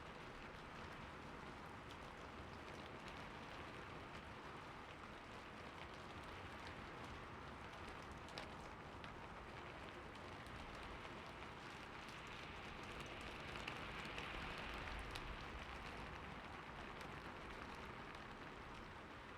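Slow, light rain falling steadily: a soft hiss dotted with small drop taps. It swells for a few seconds a little past the middle.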